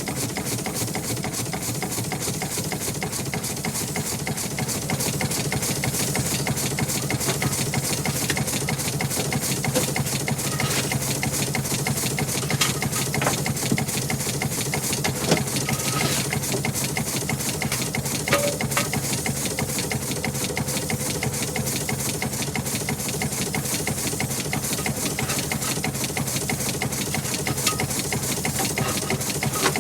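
An engine running steadily with a rapid, even clatter, and a few sharper clicks about halfway through.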